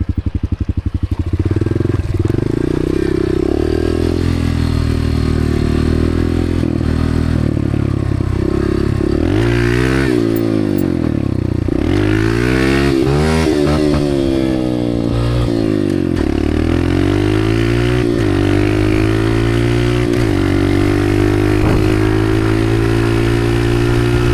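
Honda dirt bike engine ticking over in quick even pulses, then pulling away and being ridden, its pitch climbing and dropping again and again as the throttle is opened and closed through the gears.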